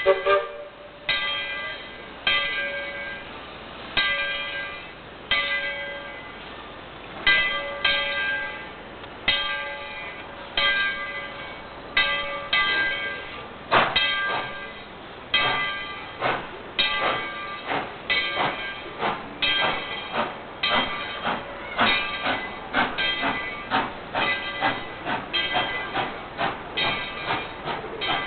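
Tweetsie Railroad #12, a 4-6-0 narrow-gauge steam locomotive, pulling away: exhaust chuffs that start about a second and a half apart and quicken steadily as the train gathers speed, with one sharp loud crack about halfway through.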